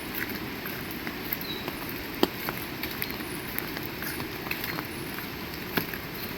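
Heavy rain falling steadily, with scattered sharp drip taps through it; two louder taps about two seconds in and near the end.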